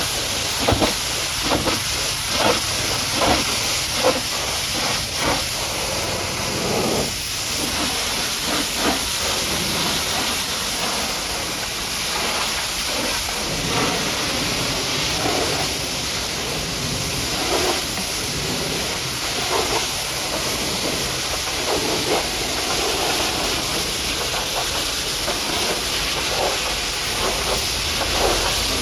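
High-pressure washer jet spraying water onto a mud-caked truck: a steady hiss with irregular splattering bursts as the spray strikes and moves over the surfaces, busiest in the first several seconds.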